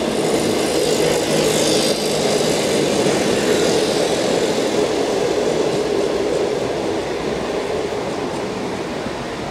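Green Type 22 passenger coaches of a diesel-hauled local train rolling past on the rails with a steady wheel-and-track rumble, slowly fading as the last coach goes by.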